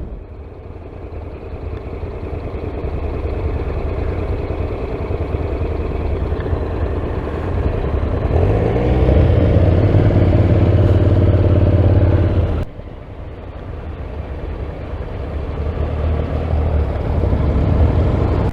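Motorcycle engine running on the road with wind rush, heard from a helmet-mounted camera. It grows louder, drops off abruptly about two-thirds through, then builds again.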